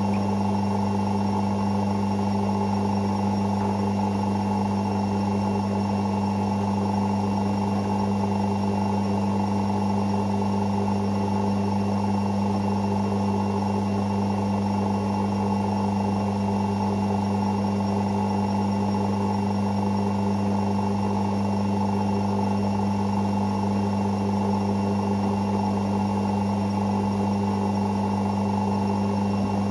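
Hoover Six Sportswear 1300 washing machine running mid-cycle with a steady, unchanging hum.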